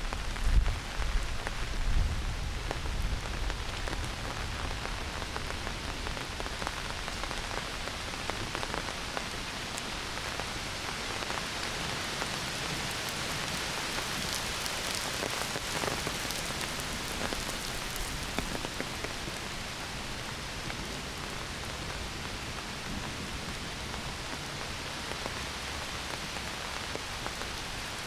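Heavy summer rain pouring down on forest foliage and ground, a steady hiss of countless drops. A few low rumbles sound in the first couple of seconds.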